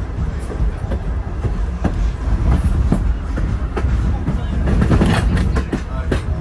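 Railroad passenger train rolling along the track: a steady low rumble with sharp wheel clicks over rail joints at uneven spacing.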